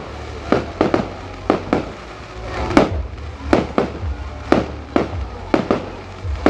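Fireworks display: a run of sharp aerial shell bangs, about a dozen, many coming in quick pairs, each with a short echoing tail.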